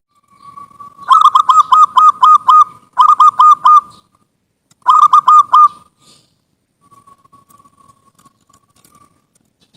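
Zebra dove (perkutut) singing: three quick phrases of short, rapidly repeated coos, the first phrase the longest. Fainter calls follow near the end.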